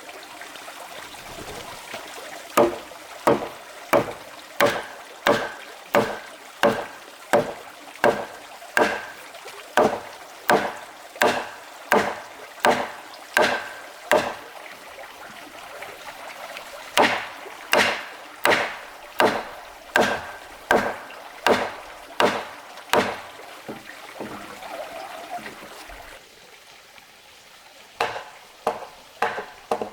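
Wood being chopped with a blade, sharp strikes at a steady pace of about one every 0.7 seconds. The strikes stop for a few seconds near the end, then start again.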